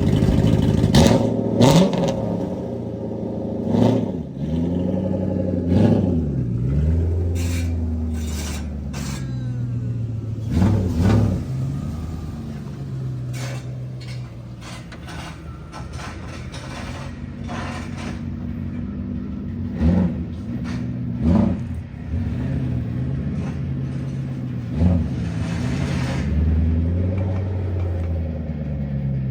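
Car engine revving again and again, its pitch rising and falling in repeated sweeps, with a few sharp clicks in between.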